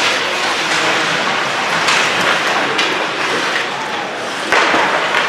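Ice hockey play in a rink: a steady wash of crowd and skating noise, broken by sharp knocks of puck and sticks, the loudest about four and a half seconds in.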